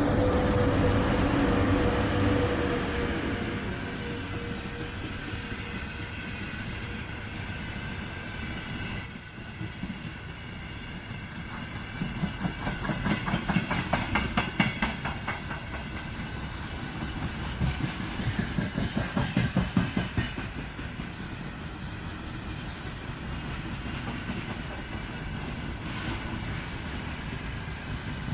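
A VL80 two-section AC electric locomotive passing, its steady hum fading over the first few seconds as it moves away. A long freight train of gondola cars follows, rolling past with the wheels clicking rhythmically over the rail joints. A single loud clank comes about nine seconds in.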